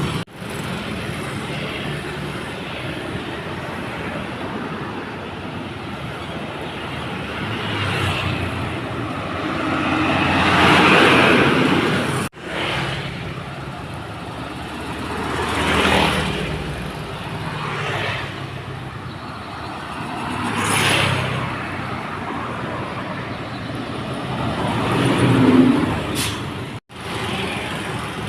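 Loaded dump trucks driving past on a wet road, with about four passes that each swell and fade over a steady traffic noise. The sound drops out briefly twice, about twelve seconds in and near the end.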